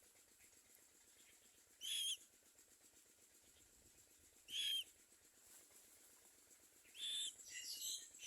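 Common myna calling: a short pitched call repeated three times, about two and a half seconds apart, then a longer burst of rougher chattering calls near the end.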